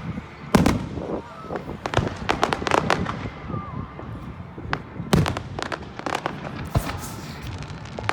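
Fireworks going off: several heavy bangs mixed with rapid crackling pops.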